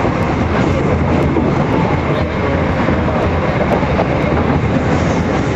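Metro-Cammell MLR electric multiple unit running at speed, heard from inside the car: a steady loud rumble and rush of wheels on rail with a faint clickety-clack. Another train passes close alongside on the next track.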